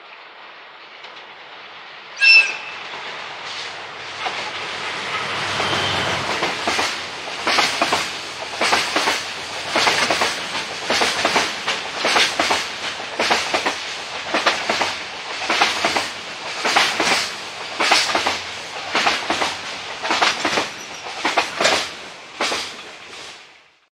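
A freight train hauled by a DF200 diesel locomotive passing close by, with a short horn blast about two seconds in. The locomotive's low rumble builds, then the wagons' wheels clack over the rail joints in a steady, even rhythm until the sound cuts off just before the end.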